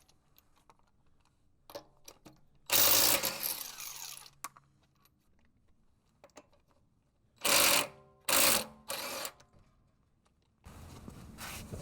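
A wrench working a bolt on the rear brake and hub: one burst of rapid mechanical clatter about three seconds in, then three short bursts a little past the middle.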